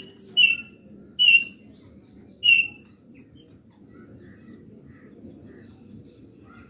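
A bird squawking: three short, loud, high calls within the first three seconds, followed by faint scattered chirps.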